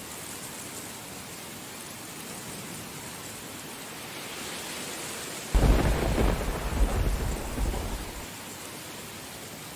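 Steady heavy rain, with a thunderclap that breaks sharply about halfway through and rumbles on for two or three seconds before fading back into the rain.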